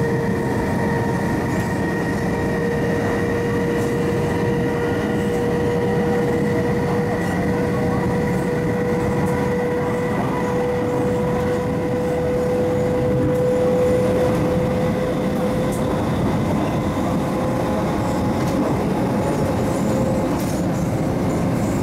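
MTR East Rail mid-life refurbished MLR electric train running at speed, heard onboard: a steady traction-motor whine that rises slowly in pitch for the first half and then holds, over a constant rumble of wheels on rail.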